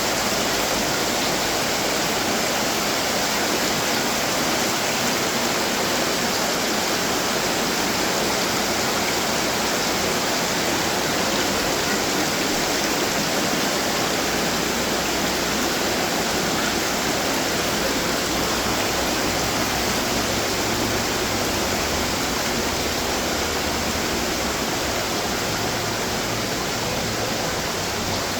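Running water from garden fountains falling and splashing into their basins: a steady, unbroken rush.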